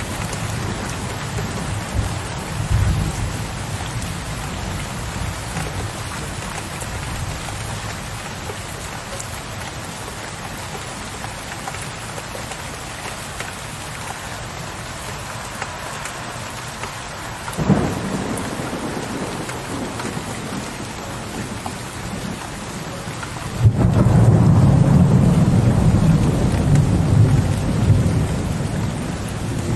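Steady rain with thunder rumbling low. A sharp crack of thunder comes a little past halfway, and a loud low rumble of thunder begins suddenly near the end.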